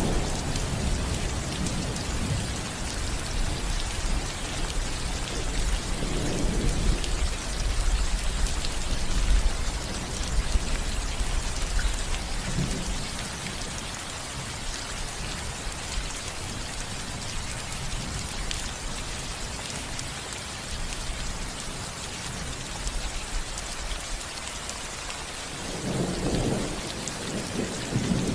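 Steady rain falling on a roof, with low thunder rumbling through the first several seconds and again near the end.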